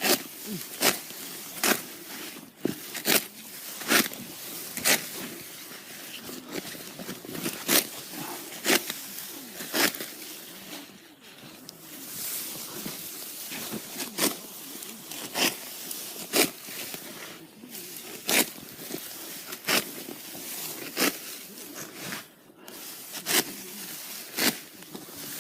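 Serrated rice-harvesting sickle cutting rice stalks by hand: a crisp rasping stroke, 서걱서걱, about once a second.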